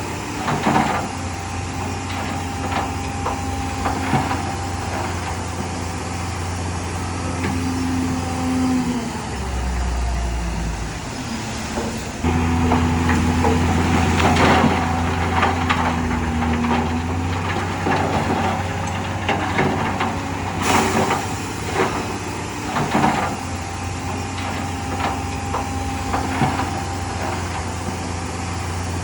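Heavy earthmoving machinery's diesel engine running steadily, with scattered metallic clanks and knocks. The engine note drops lower about ten seconds in and comes back louder about two seconds later.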